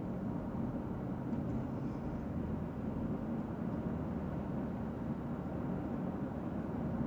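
Steady road and engine noise inside a moving car's cabin, an even low rumble of tyres and engine.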